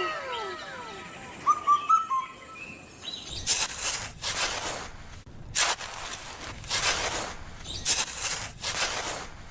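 Birds chirping in short arched calls for the first two seconds. From about three and a half seconds in, a series of loud, rushing, hiss-like noise bursts follows, several to the end.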